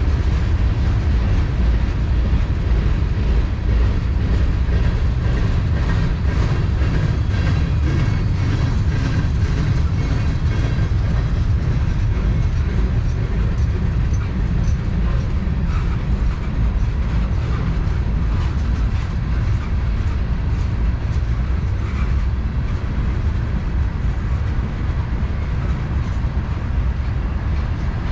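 Freight train cars rolling past with a steady low rumble and wheels clicking over the rail joints.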